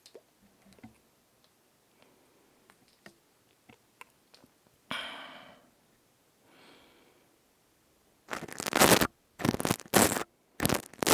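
Close-miked ASMR handling of crystal tubes: a few light ticks and taps, and a brief ringing swish about halfway. Near the end come several loud, rough scraping strokes against the microphone, each under a second long.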